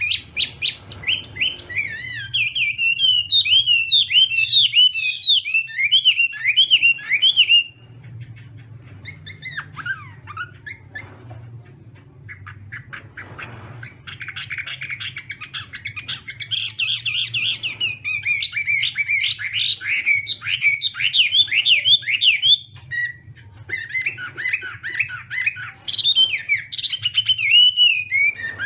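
Chinese hwamei singing a loud, fast, varied song of rapid gliding notes in long runs, with a quieter stretch of scattered notes about a third of the way in.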